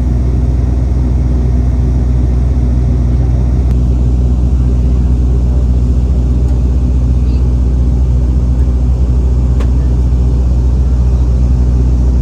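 Dash 8 turboprop's engines and propellers droning steadily in the cabin, a loud, even low hum with a fixed propeller tone and no change in pitch.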